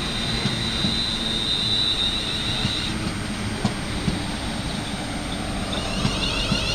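A train running past on the rails, with a steady rumble and sharp wheel clicks at uneven intervals. A high thin whine stops about three seconds in, and a wavering high tone starts near the end.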